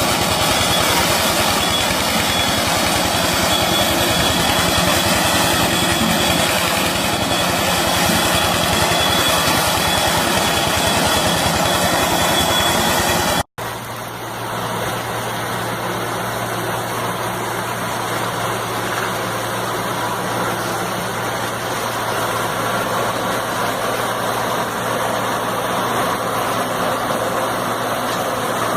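Engines of working farm machinery running. There is a hard cut about 13 seconds in: first a loud, fast-firing engine, then a steadier, lower engine hum.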